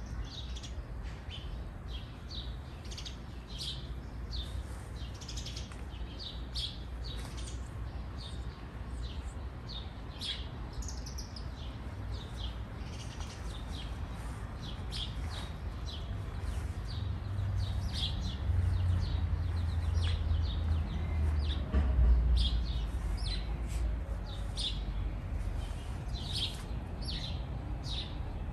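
Small birds chirping, many short high calls through the whole stretch, over a low rumble that swells in the middle and is loudest about two-thirds of the way in.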